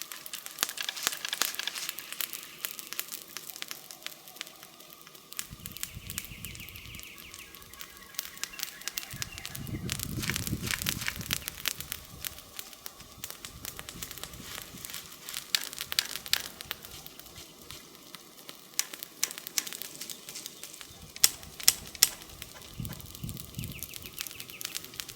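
Wood campfire crackling and popping, with a few louder sharp pops about three quarters of the way through and several brief low rushing swells.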